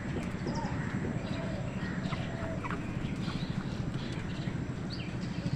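Crows and smaller wild birds calling: short, scattered calls and chirps, over a steady low background rumble.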